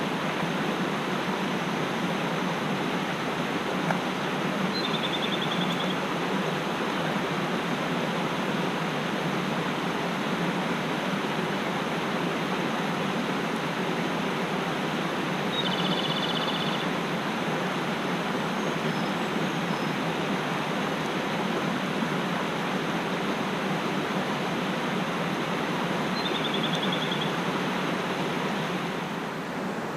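Mountain stream rushing steadily. A small bird gives a short, rapid trill three times, about every ten seconds.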